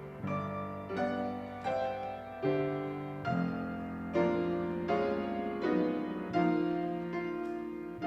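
Piano playing slow chords, a new chord struck roughly every three-quarters of a second and fading away before the next.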